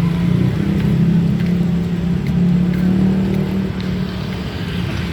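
A motor vehicle engine running, a steady low hum that swells and eases, a little louder in the first three seconds.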